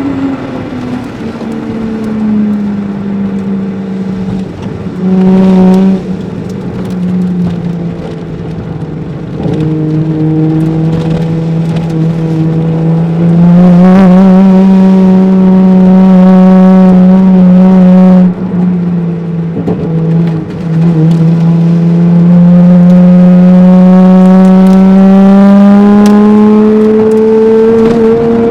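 Toyota Soarer's 1JZ-GTE twin-turbo straight-six heard from inside the cabin, driven hard. The engine note rises and falls with the throttle: it eases off briefly several times, holds a loud full-throttle stretch midway, and climbs steadily in pitch near the end as it accelerates through a gear.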